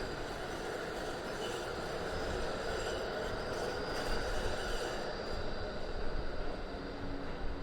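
Melbourne E-class articulated tram running steadily through a tight street curve, the steady noise of its wheels on the rails and its traction motors.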